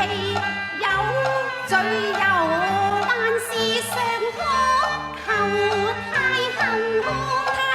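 Cantonese opera music: a sung melody with long sliding pitches over Chinese instrumental accompaniment.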